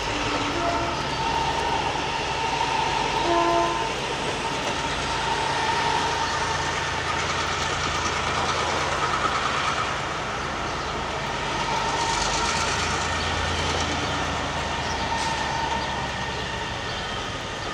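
Diesel engine of a G22 locomotive running steadily as it shunts, with the hum and rumble of the train moving on the track.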